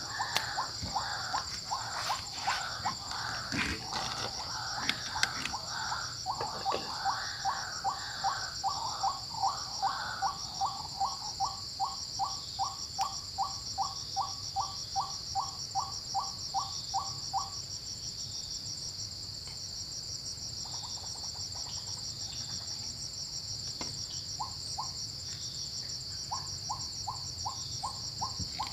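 A bird calling in a long run of short repeated notes, about three a second, that stops about two thirds of the way through and comes back briefly near the end, over a steady high-pitched insect chorus.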